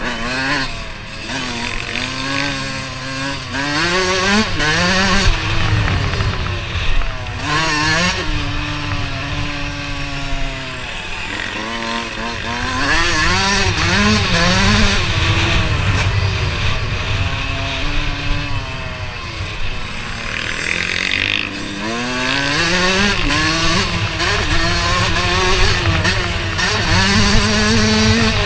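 Dirt bike engine revving hard, its pitch climbing through each gear and dropping at the shift, again and again as it rides the track.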